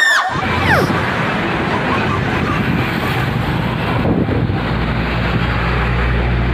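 A short falling whistle, then a steady rushing noise with a low rumble that cuts off abruptly, an edited-in sound effect.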